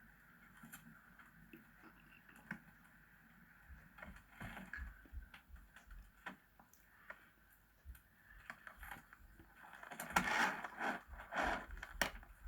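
Scattered light knocks and scrapes of hand work, becoming a louder, denser scraping about ten seconds in.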